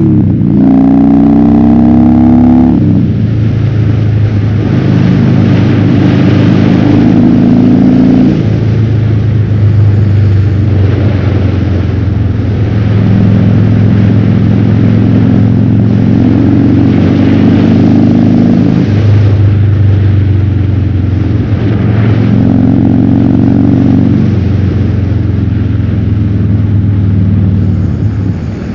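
Harley-Davidson Fat Bob's V-twin through a KessTech ESM3 exhaust in legal mode, under way: it pulls with rising pitch in the first seconds, drops sharply at a shift, then runs on at changing throttle with several further steps in pitch. Heard from the rider's helmet.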